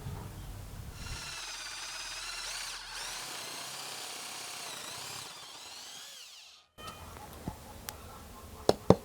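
Small electric power tool running with a high whine for about five seconds, its pitch wavering before it cuts off abruptly; then a few sharp clicks, the loudest two close together near the end.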